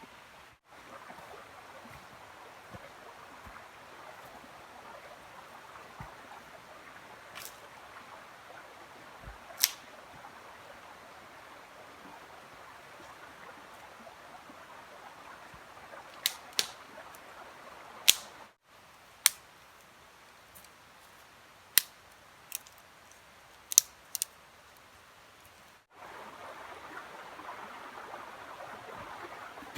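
Scattered sharp pops and snaps over a steady hiss, broken by a few abrupt cuts.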